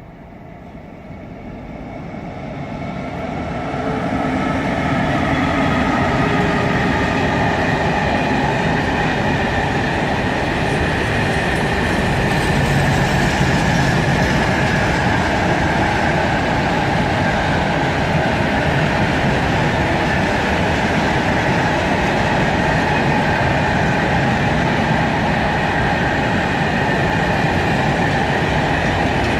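Freight train approaching and then rolling past on the coal line: the rumble builds over the first four seconds or so, then holds loud and steady as the wagons run by, with a steady high ringing from the wheels on the rails.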